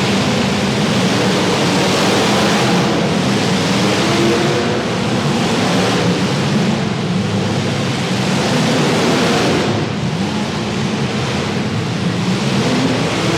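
Several demolition derby car engines running and revving together: a loud, dense noise whose engine pitches waver up and down.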